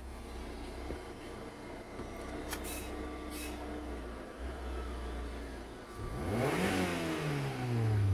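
Opel Vectra C's 1.8-litre Z18XER four-cylinder petrol engine idling steadily during an engine test. About six seconds in it is revved up sharply, and its speed falls away again near the end.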